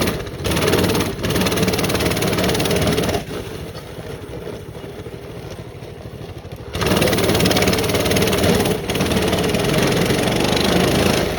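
Small off-road engine running under throttle while riding, easing off about three seconds in and opening up again about seven seconds in.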